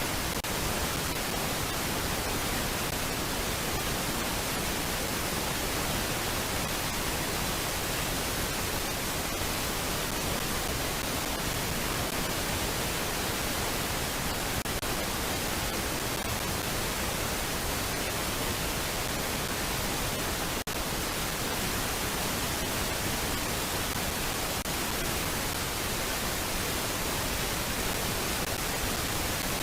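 Steady, even hiss of noise, with a momentary drop about twenty seconds in; no bird calls stand out.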